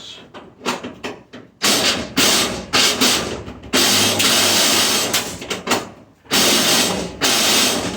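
Tool work on the fasteners of a stainless steel restaurant dishwasher: three loud bursts of harsh mechanical noise, each lasting about two seconds, with short breaks between.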